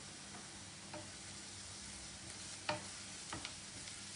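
Finely chopped onions frying quietly in hot oil and ghee, a steady faint sizzle, with a few light clicks. The onions have just been salted so they sweat and caramelise faster.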